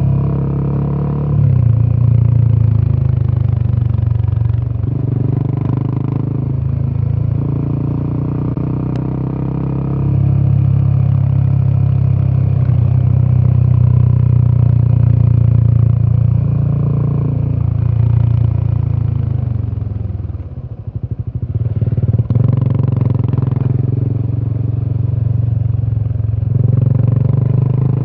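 Royal Enfield Himalayan 450's single-cylinder 452cc Sherpa engine running under way, its exhaust note shifting in pitch several times with throttle and gear changes. About twenty seconds in the throttle is closed briefly and the engine drops away in a run of quick pulses, then pulls again.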